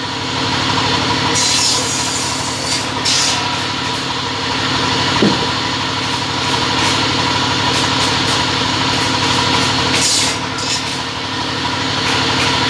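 Two-head cutting machine running with a steady motor hum, with hissy stretches of sawing about a second in and again about ten seconds in.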